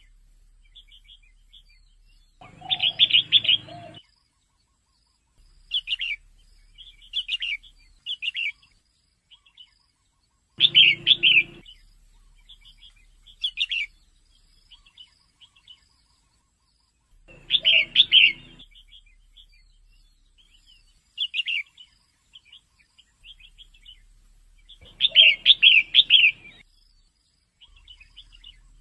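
Female red-whiskered bulbul calling: short chirps and trills keep coming, with a louder cluster of several notes about every seven seconds.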